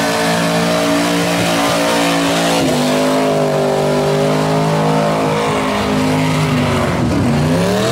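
Chevrolet Chevelle's engine held at high revs during a burnout, with its rear tyres spinning and screeching against the pavement. The revs sag briefly a few seconds in, then drop and climb again near the end.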